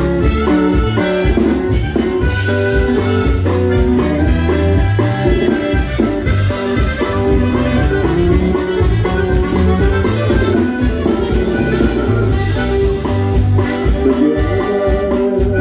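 Norteño band with saxophone playing an instrumental passage, bass and drum kit keeping a steady dance beat.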